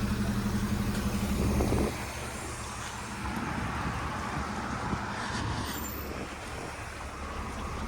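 Road traffic on a wet street: a vehicle engine runs close by with an even pulsing for about two seconds and then drops away, leaving a steady hiss of traffic.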